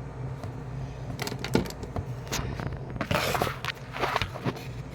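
Scattered knocks, clicks and scrapes of a phone being handled and set down on top of an air conditioner unit, with a longer scraping rush about three seconds in. A steady low hum runs underneath.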